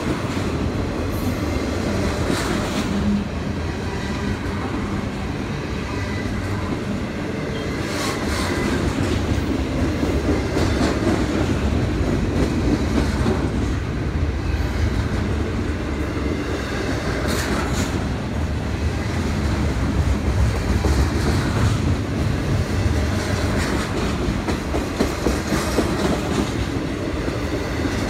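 Double-stack container freight train rolling by: a steady rumble of wheels on rail, with a few sharp clanks scattered through it.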